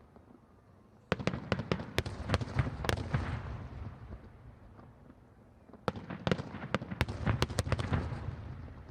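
Fireworks going off in two rapid volleys of sharp bangs with a low rumble, the first about a second in and the second about six seconds in.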